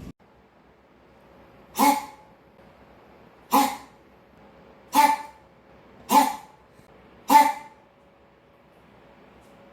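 A dog barking five times, short sharp barks about one to one and a half seconds apart.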